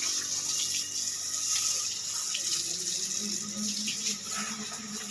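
Water spraying in a steady hiss, typical of a hose jet rinsing a motorcycle.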